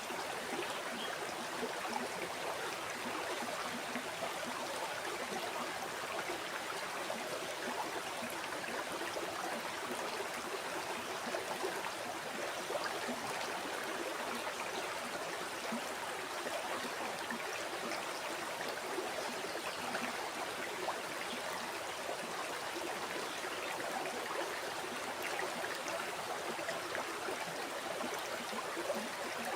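River water flowing steadily over stones, a continuous even rush with fine splashing and gurgling.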